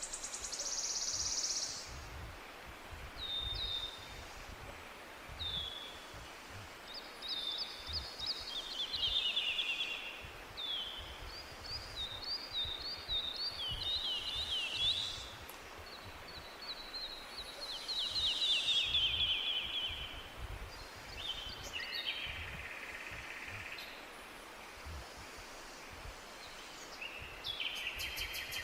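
Songbirds singing in a forest: short, high, downward-slurring phrases and trills, one every second or two, over a steady background hiss.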